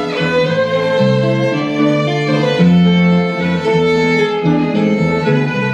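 Instrumental break in a song: a violin plays a melody over strummed acoustic guitar chords.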